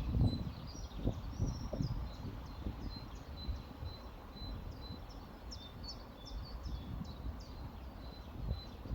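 Several small birds chirping and singing, with one short high note repeated about twice a second, over a low uneven rush of flowing river water.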